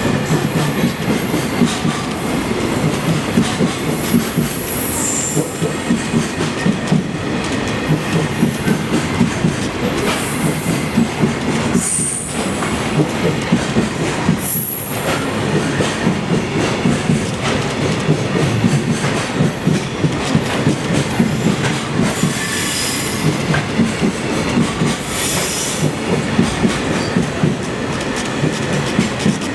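A long container freight train passing close by, its wagon wheels clattering in a steady rhythm over the rail joints. High wheel squeal rises and fades several times along the train.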